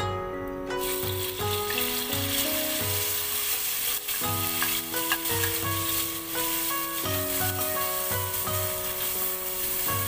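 Blended chili spice paste hitting hot oil in a wok and sizzling loudly, starting about a second in, while a metal spatula stirs it. Plucked-string background music plays over it.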